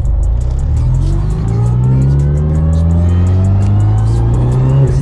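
Built, tuned 10th-gen Honda Civic Si race car's turbocharged 1.5-litre four-cylinder accelerating hard. The engine note climbs steadily for about four seconds, then drops sharply near the end at a gear change.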